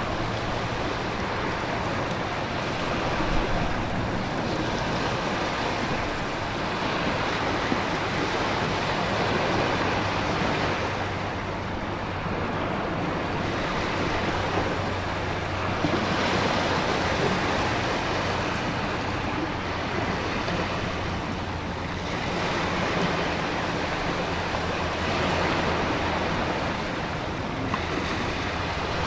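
Storm ambience: a steady rush of heavy rain and wind, with ocean surf swelling and easing every several seconds over a faint low hum.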